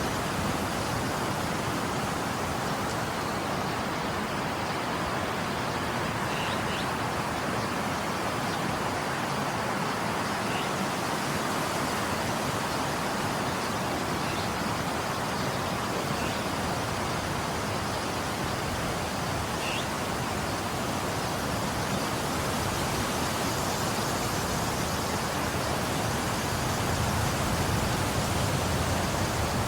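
Steady rushing of falling water, an even hiss-like roar that does not change.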